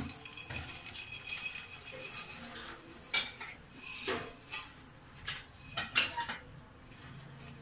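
Freshly made popcorn being tipped and scooped out of a metal cooking pot into a bowl: a series of irregular metal clinks, knocks and scrapes.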